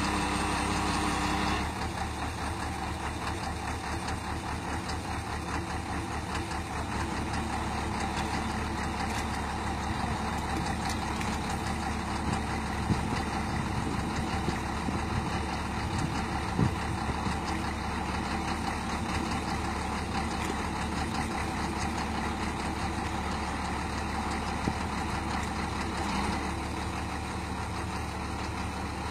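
Kobelco excavator's diesel engine running steadily, a little louder for the first second or so, with a few sharp clanks here and there.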